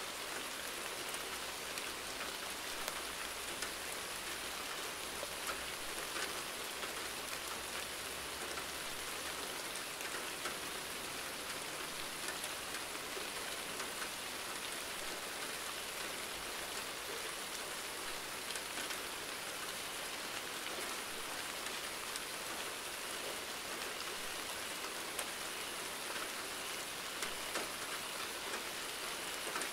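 Steady rainfall: a constant hiss of rain with scattered individual drops ticking on a surface.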